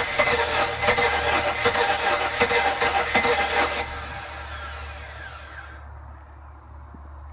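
Inboard boat engine, unused for about three years, turned over by its starter with a fast, loud rattle; about four seconds in it slows with a falling whine and stops by about six seconds, leaving a faint low hum.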